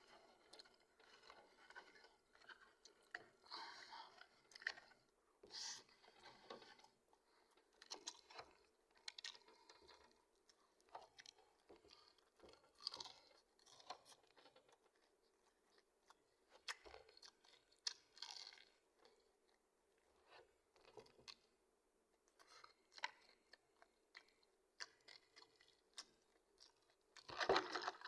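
A person eating close to the microphone: faint, irregular chewing and mouth sounds with soft crunching bites.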